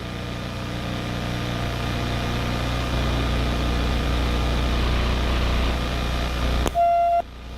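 A motor vehicle engine running with a steady low hum that grows gradually louder, then cuts off abruptly near the end, followed by a short single-pitch beep.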